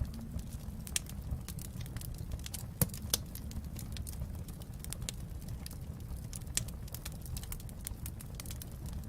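Wood fire crackling in a fireplace: irregular snaps and pops over a low steady rumble, with two louder pops about three seconds in.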